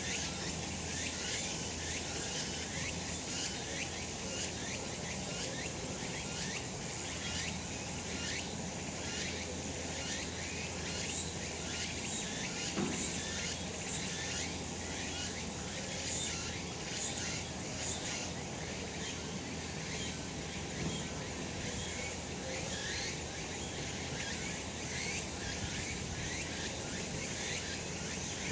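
Many cicadas calling at once in summer: a dense, continuous chorus of overlapping short chirps.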